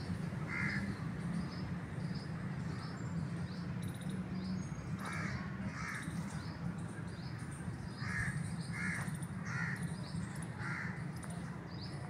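Birds giving short, harsh caw-like calls, about seven of them, singly and in quick pairs. Faint high chirps from other birds run underneath, over a steady low hum.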